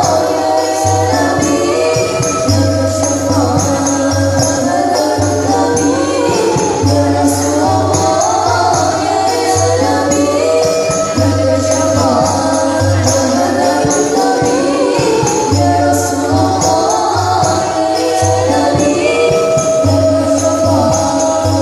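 Sholawat devotional music: voices singing a melody over steady percussion with tambourine-like jingles and a sustained low bass.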